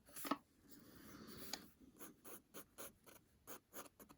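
Fine-tip Micron pen drawing on paper: a run of short, quick scratching strokes, with one longer continuous stroke about a second in.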